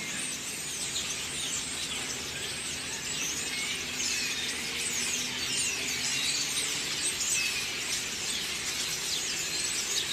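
A large flock of songbirds chirping all at once: a dense chorus of many overlapping high chirps and short falling notes.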